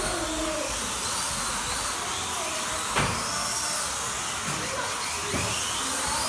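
Several slot cars' small electric motors whining around the track, the pitch rising and falling as they accelerate down the straights and brake into corners. A single sharp click about three seconds in.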